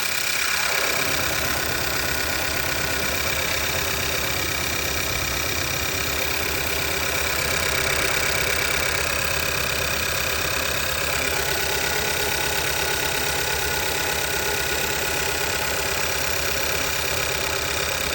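2014 Hyundai i40 engine idling steadily.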